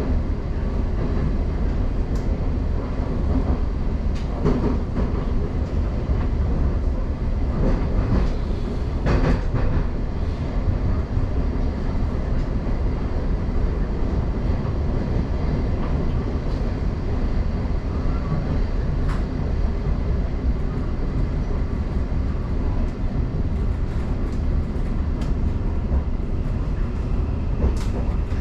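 Class 717 electric multiple unit heard from inside the carriage, running through a tunnel: a steady rumble of wheels on rail, with a few louder clacks about 4 and 9 seconds in.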